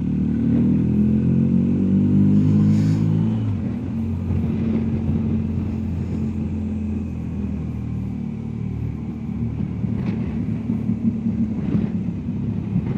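BMW R1250GS Adventure's boxer-twin engine pulling under acceleration, its note rising for about three and a half seconds, then dropping suddenly at a gear change and running steadily, with wind noise on the microphone.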